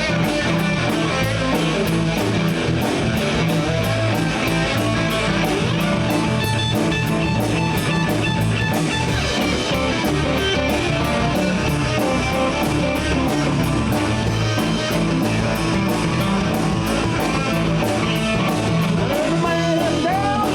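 Live electric blues band of two electric guitars, bass and drum kit playing an instrumental passage with a steady cymbal beat, with sliding notes near the end.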